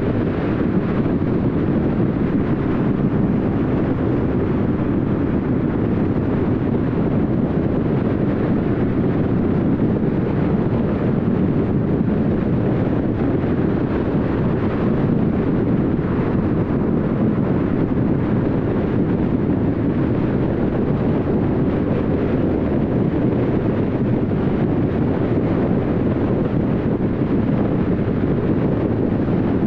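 Steady road noise of a car driving at highway speed: an even rush of tyre and wind noise that does not change.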